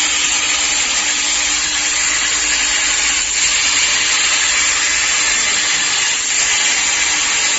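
Plasma torch of a portable CNC plasma cutting machine cutting metal: a steady loud hiss with a faint steady hum under it.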